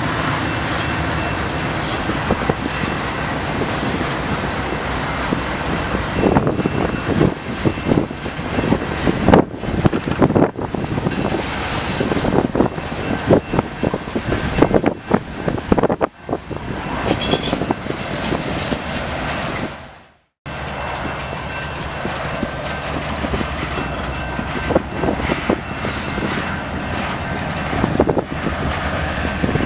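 Freight train passing slowly: the diesel locomotives' engines hum steadily as they go by, then hopper cars roll past with their wheels clicking and clanking irregularly over rail joints. The sound cuts out briefly about two-thirds of the way through.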